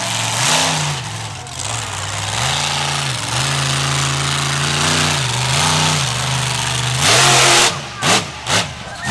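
Monster truck engine revving up and down several times. Near the end it lets out a loud blast, then three short sharp revs.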